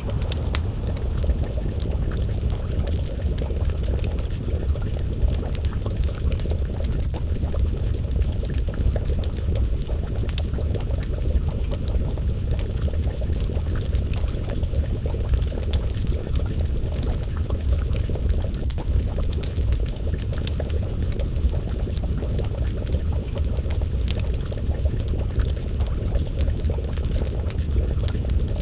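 Crackling wood fire: many small sharp pops and ticks over a steady, dense low rumbling noise.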